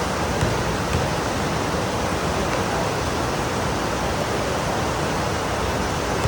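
Heavy rain pouring down, a steady, even hiss, with a couple of light taps in the first second.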